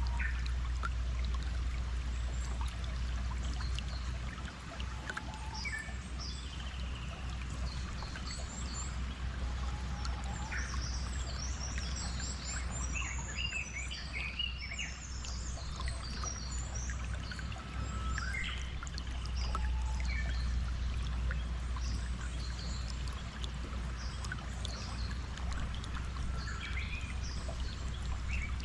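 Steadily flowing stream water with many birds chirping over it in short calls, busiest in the middle.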